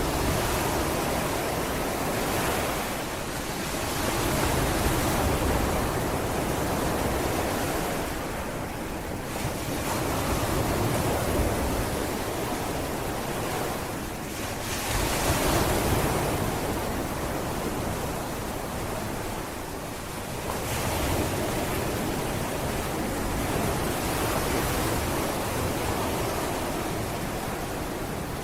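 Sea waves breaking and washing onto a beach: a continuous surf rush that swells and ebbs every few seconds, with some wind on the microphone.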